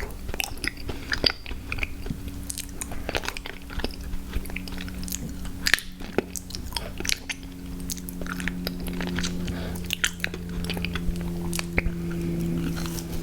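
Close-miked ASMR eating sounds: biting and chewing on sweet snacks, with many short crisp mouth clicks and small crunches.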